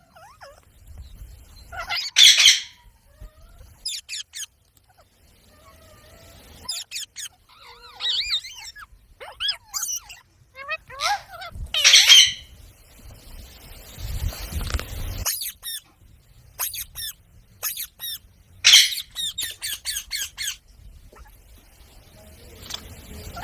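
Rose-ringed (Indian ringneck) parrots calling: three loud, harsh screeches, about 2, 12 and 19 seconds in, with many short chirps and squawks between them.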